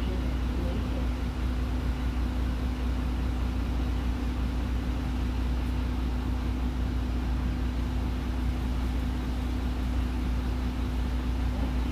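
Interior running sound of a Nihon Kotsu route bus, fleet no. 385: a steady low engine drone with a constant hum, without change.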